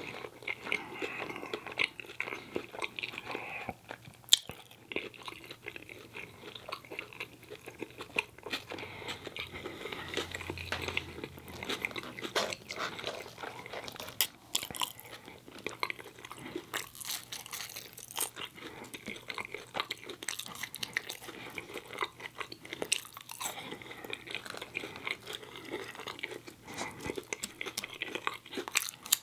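Close-miked chewing and biting of fast food, a bacon cheese hot dog and Cajun fries, with many small crunching clicks. One sharper click comes about four seconds in.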